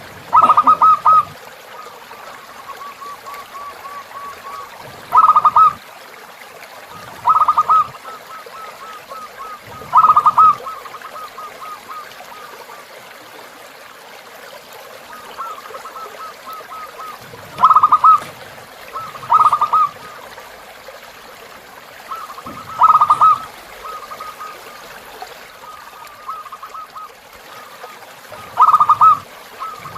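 Zebra doves (perkutut) cooing: short loud bursts of rapid cooing notes every few seconds, with fainter trilled cooing between them. A river flows steadily underneath.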